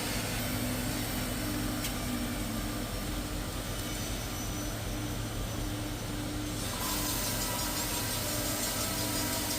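CNC door-lock drilling machine running, a steady machine hum with a pulsing mid-pitched tone; about seven seconds in, a brighter hissing noise joins, as of the cutter working into the wood.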